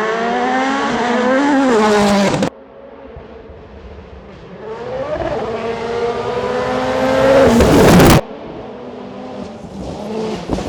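Toyota Yaris WRC rally car's 1.6-litre turbocharged four-cylinder engine revving hard under load. The pitch rises and dips with the gears, and the sound cuts off suddenly twice to a quieter engine. Between the cuts the revs climb steadily and grow louder.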